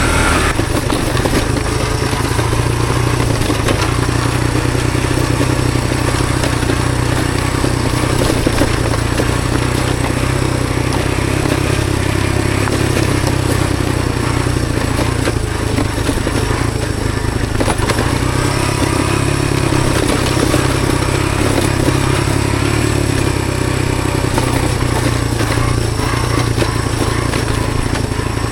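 Honda CT110 postie bike's small single-cylinder four-stroke engine running steadily while riding, with a broad hiss of wind and road noise over it.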